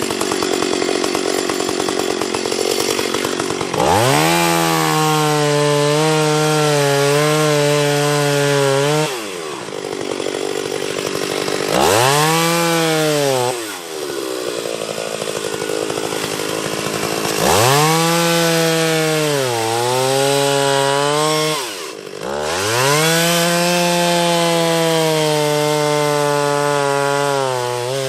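Gas chainsaw revved to full throttle four times, its pitch sagging at moments as it cuts into wood, and dropping back to idle in between.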